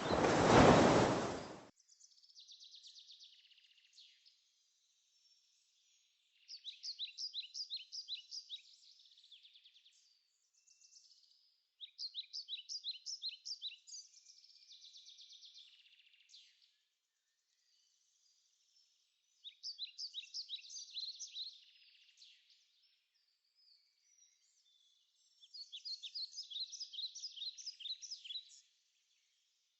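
Bird song: a songbird repeats a phrase of quick high notes in a fast rattling series four times, roughly every six seconds, with fainter chirps in between. A loud rushing noise, like surf or wind, cuts off abruptly at the very start.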